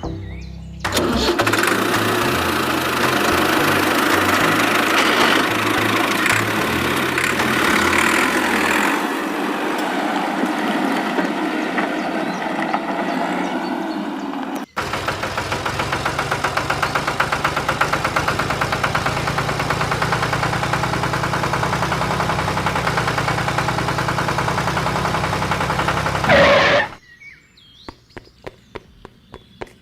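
Engine running loudly and steadily, with a fast even firing rhythm after a brief break midway, then cutting off suddenly near the end. Music plays under the first half.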